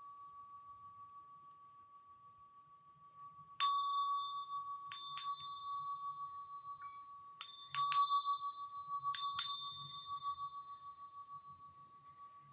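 A small metal bell struck seven times, the later strikes in quick pairs. Each strike rings on in a steady high tone that slowly fades.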